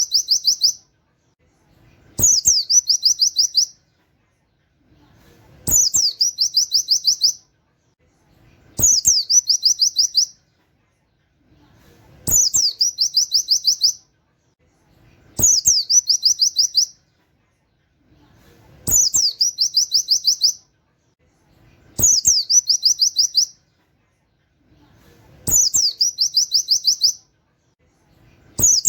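Pleci (white-eye) singing a canary-style 'wit wit' phrase over and over, about once every three seconds. Each phrase is a sharp falling note followed by a quick run of about ten high, chirping notes.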